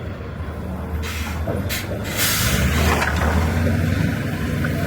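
Oilfield truck's diesel engine running steadily under a low rumble, with several short bursts of hissing air about a second in, near the middle and at the end.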